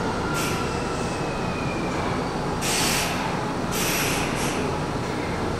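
Electric commuter train running at a station platform: a steady rail rumble, with short bursts of high hiss about half a second in and again around the third and fourth seconds, and a faint whine falling in pitch over the first two seconds.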